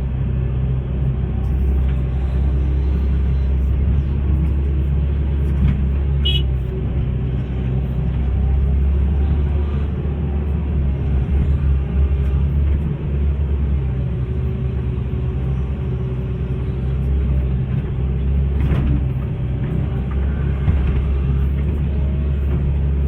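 Hitachi hydraulic excavator's diesel engine running steadily at work, a continuous low rumble.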